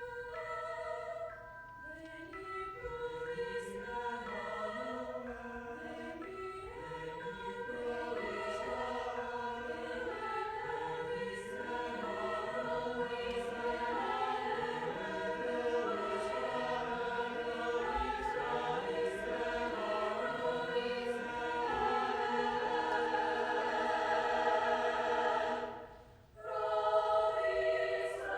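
A choir singing in parts, with a short break near the end before the singing picks up again.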